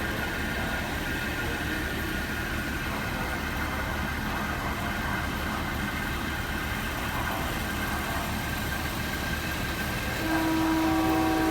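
Steady rumble of a passenger train. About ten seconds in, the locomotive horn starts a long, steady blast with several pitches that is still sounding at the end.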